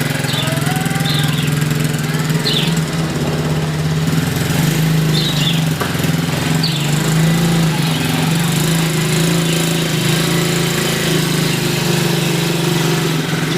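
Quad bike (ATV) engine running steadily at an even pitch.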